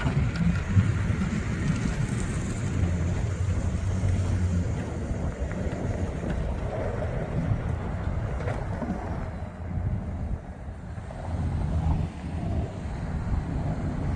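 A vehicle engine running steadily under load, with wind buffeting the microphone.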